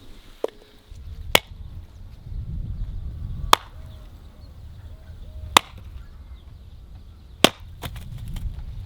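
Wood being chopped: four sharp strikes about two seconds apart, after a lighter knock at the start, over a low rumble.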